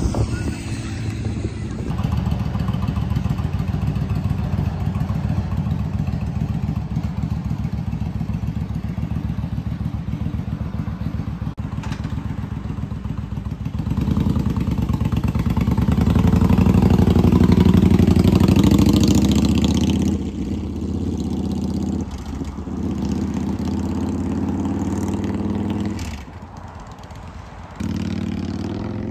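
Motorcycle engine running steadily, with its exhaust note swelling louder for several seconds about halfway through before easing back off.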